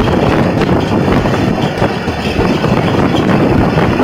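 Steady running noise of a passenger train moving along the track, with wind rushing over the microphone held at an open carriage window.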